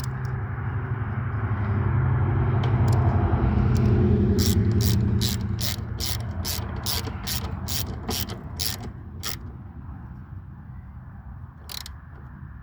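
Ratchet wrench with a 10 mm socket tightening the intake housing nuts: a steady mechanical whirr swells over the first few seconds, then quick ratchet clicks come about three a second for around five seconds.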